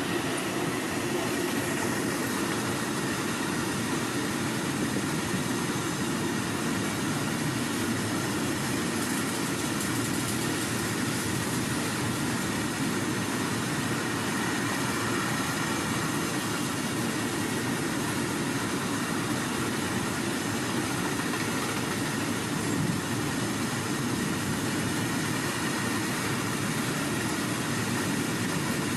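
Long freight train of coupled wagons rolling along the track, a steady, unbroken rumble.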